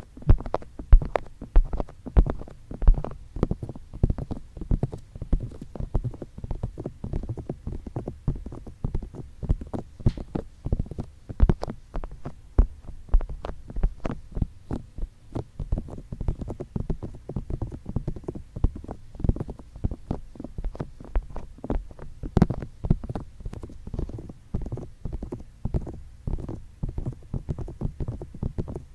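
ASMR ear tapping and touching: fingertips tapping and rubbing on the microphone's ears in a rapid, irregular stream of muffled taps with deep thuds.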